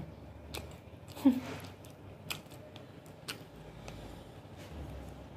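Close-up mouth sounds of a person chewing a mouthful of barbecued chicken thigh: a few soft, wet clicks and smacks spread through, and a brief voiced "mm" about a second in.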